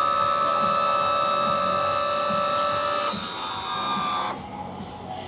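Electric power trunk motor running with a steady whine. Its tone drops out about three seconds in, and the motor cuts off a little past four seconds.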